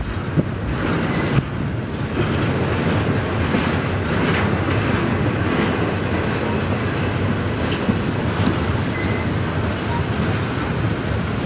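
Double-stack intermodal freight train rolling past at close range: a steady rumble of steel wheels on the rails, with clicking over the rail joints and a couple of brief, faint high wheel squeals.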